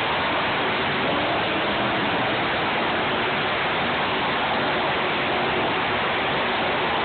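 Monster truck engines running in an arena, heard through a phone's microphone as a steady, loud wash of noise with a faint engine hum underneath.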